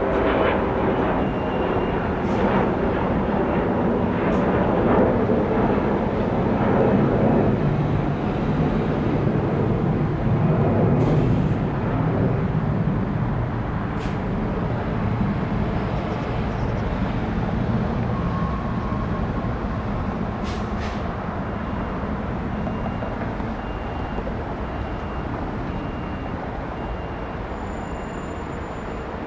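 Jet engine roar of a Boeing 757-300 airliner arriving to land. It is loud for the first ten seconds or so, then slowly fades as the aircraft moves away.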